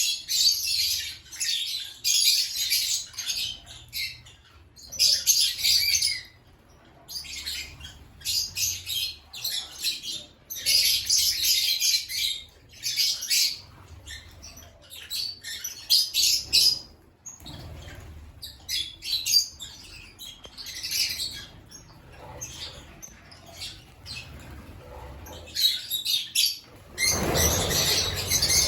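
Lovebirds chattering in bursts of shrill, high-pitched chirps and squawks with brief pauses between. Near the end a louder rushing noise comes in under the calls.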